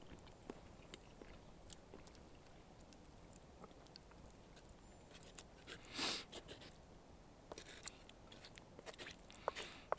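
Quiet handling noises: scattered small clicks and crunches, with one louder rustle about six seconds in and a few sharper clicks near the end.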